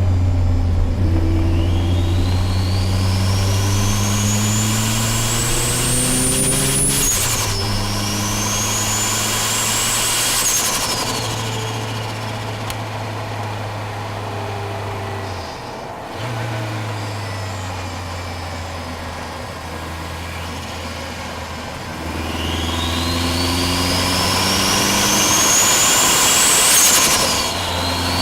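Subaru Impreza GC8's flat-four boxer engine accelerating hard under load: revs climb, break at a gear change about seven seconds in and climb again, ease off into a steadier lower drone through the middle, then climb once more with another shift near the end. A high whine rises and falls with the revs.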